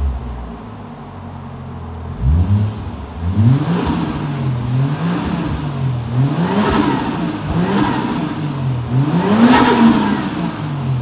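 Toyota 1JZ turbocharged inline-six engine revved in a series of short blips, its pitch rising and falling about five times, with a fluttering rush of air from the turbo as the throttle is released after each rev.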